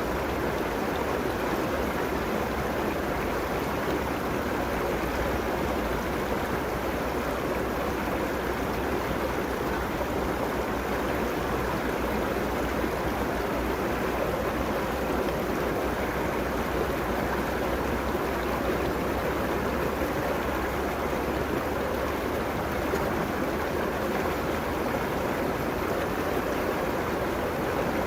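River water running steadily over its bed, an even rushing with a low rumble beneath.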